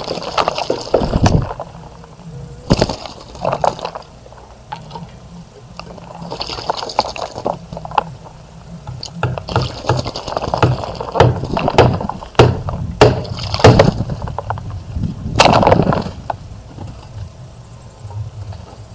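Birds bathing in a bird bath: water splashing and sloshing in irregular bursts, some quite loud, with a low rumble underneath.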